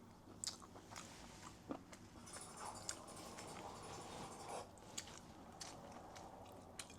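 Someone eating close to the microphone: faint chewing and biting with scattered small clicks, and a crunchier stretch in the middle.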